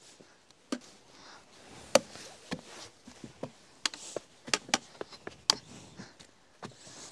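Hikers climbing over rock: irregular sharp taps and knocks of footsteps and gear striking stone, about a dozen, the loudest about two seconds in.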